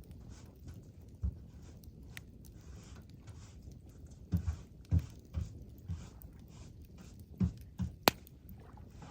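Campfire burning with a faint hiss, scattered dull thumps and one sharp crack of popping wood about eight seconds in.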